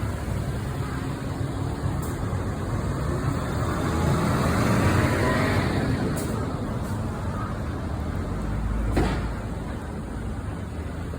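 Road traffic: the steady noise of passing vehicles, one swelling louder and fading as it goes by about halfway through, with a short thud shortly before the end.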